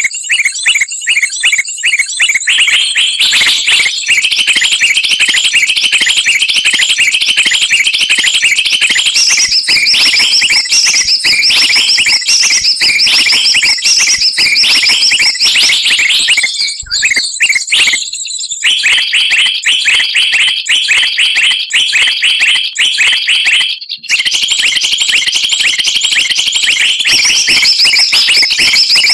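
Loud, dense chattering and rapid chirping of mixed small songbirds, played as a bird-trapping lure recording ('suara pikat') to draw wild birds down. It has brief breaks about two-thirds of the way in.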